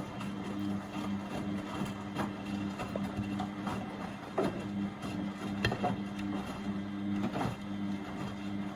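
Beko WMB71642W washing machine running in the heating stage of a Cottons Eco 30° wash, its drum motor humming steadily. There are a few short knocks and clunks from the drum and load, the clearest about four and a half and five and a half seconds in.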